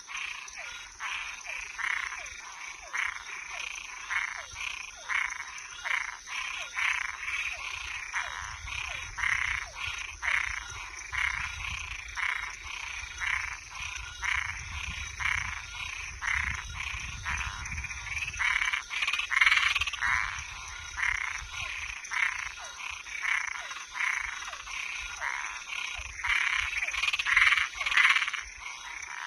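Chorus of frogs and treefrogs: short croaking calls repeating about twice a second, over a steady high-pitched buzz.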